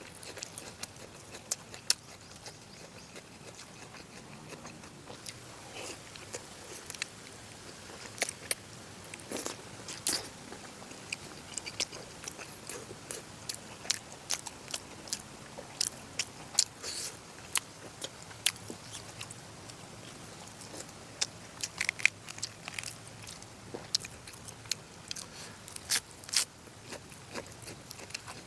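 A person eating close to the microphone: chewing and biting food, with many irregular sharp clicks and smacks.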